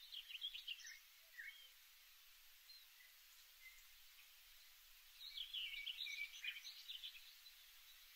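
Faint birdsong: a short phrase of quick, high chirping notes at the start and a longer, busier one about five seconds in, over a steady faint hiss.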